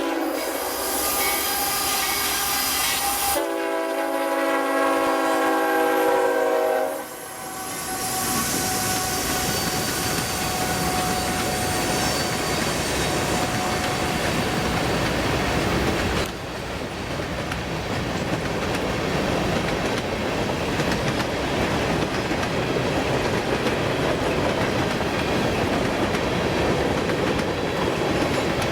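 Freight locomotive horn sounding for about the first seven seconds, then stopping as the GE diesel locomotives pass. A train of empty grain covered hoppers follows, rolling by with steady wheel noise and clickety-clack on the rails.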